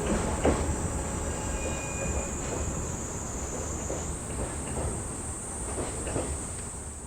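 Seino Railway freight train rolling past, a steady low rumble with wheels clicking over rail joints and a brief, faint wheel squeal early on.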